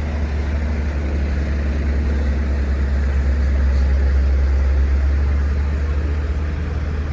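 Vintage heavy truck engine running as the truck drives slowly past: a steady, deep rumble that swells a little in the middle and eases off towards the end.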